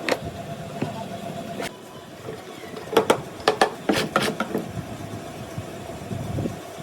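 A series of sharp knocks and clicks, bunched together about three to four and a half seconds in, over a faint steady hum.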